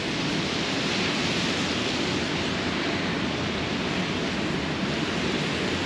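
Rain falling on a city street: a steady, even hiss.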